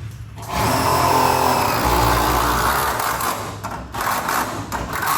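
A handheld power tool's motor running in two runs, the first about three seconds long, a short break, then about two seconds more.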